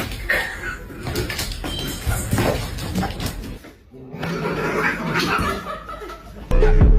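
Indistinct voices with scattered knocks and clatter, broken by a short drop-out a little past halfway. Loud plucked-string music, ukulele-like, starts about half a second before the end.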